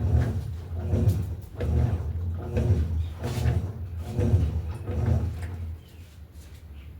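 Electrolux LTE08 top-loading washing machine agitating: a low motor hum with a regular clunk on each agitator stroke, about one to two a second, stopping about six seconds in. The owner says the agitator's screw is working loose under the heavy load.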